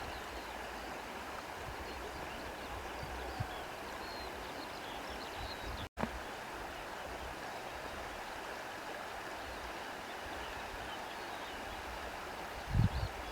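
Steady outdoor rushing hiss of wind or running water, with faint, scattered high bird chirps. The sound cuts out for an instant a little before halfway, and a low thump comes near the end.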